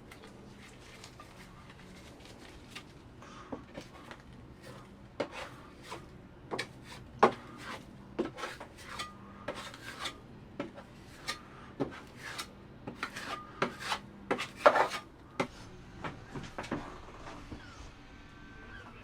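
Filling knife working fairing compound into holes in wood: irregular short scrapes and clicks of the blade, growing busier in the second half with a loudest cluster near the end.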